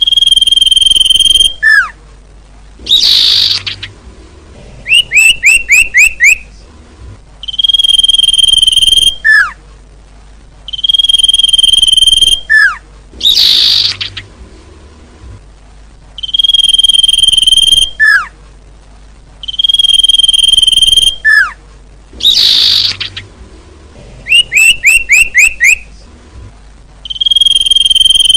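Looped bird-lure recording of small-bird calls, played loud. It cycles through long steady whistled notes, a short falling note, a harsh buzzy call and quick runs of five or six falling chirps, over and over with short gaps.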